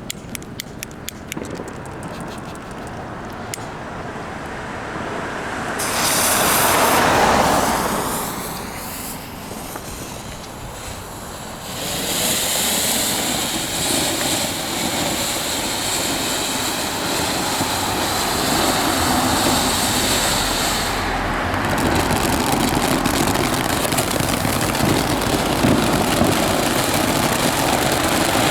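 TNT Neon Dance fireworks fountain burning: a steady hiss of spraying sparks that swells at about six seconds and builds again from about twelve seconds, with a few crackling clicks in the first seconds.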